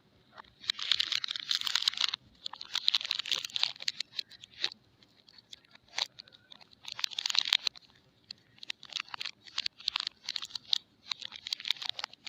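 Soap packaging being unwrapped: crinkling and tearing of wrapping in a series of bursts, each a second or two long, with sharp crackles between them. The bursts come shorter and quicker in the second half.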